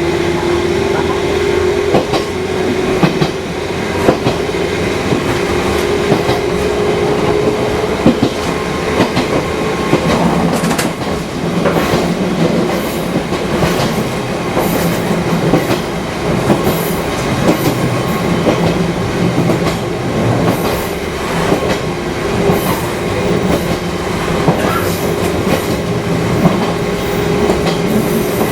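Fukui Railway 200 series electric car running on the line, its wheels clacking over rail joints with a steady whine that fades in the middle and comes back near the end.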